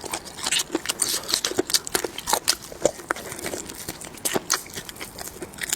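Close-up eating sounds: a person chewing and gnawing food, with quick, irregular crunchy clicks and wet mouth noises.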